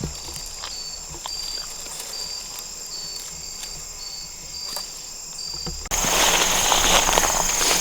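Insects chirping: a steady high trill with short, regularly repeating chirps below it, about one a second. About six seconds in, the sound abruptly gets louder and busier, with rustling and a different high insect drone.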